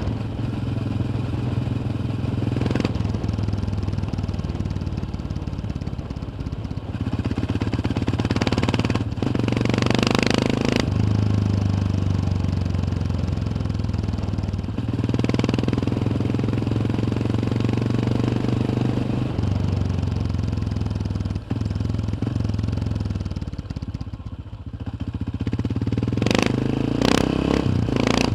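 Yamaha XT 600's single-cylinder four-stroke engine heard from onboard while riding, its throttle opening and easing off several times. A rush of noise about ten seconds in and a few sharp clicks near the end.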